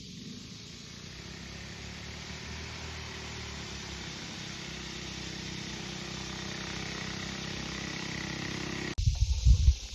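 A motor vehicle engine running steadily, growing gradually louder and slightly higher in pitch. Near the end it cuts off abruptly and is replaced by loud, uneven wind buffeting on the microphone.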